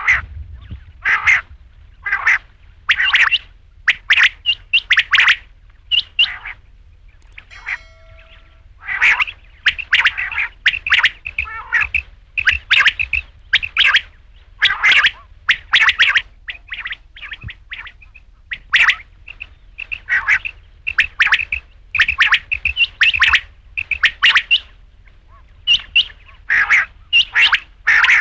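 Quail calling over and over: short, sharp calls in quick pairs and triplets, each group a second or two apart, over a steady low hum.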